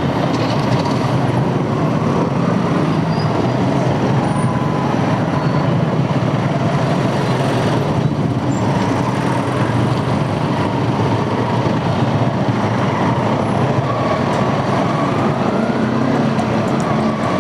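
Steady rush of wind and road noise with the motorcycle running, as the bike moves along at a steady pace with wind on the microphone.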